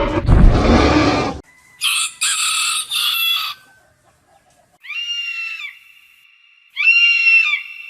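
Chicken calling: three rough calls in quick succession, then two longer high-pitched calls a couple of seconds apart. A loud noisy sound cuts off abruptly about a second and a half in.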